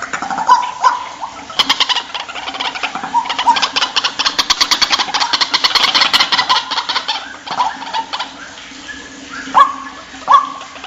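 White-breasted waterhen calling: short, sharp repeated notes. About a second and a half in, they break into a fast rattling run of about ten notes a second that lasts some six seconds, and spaced single calls follow near the end.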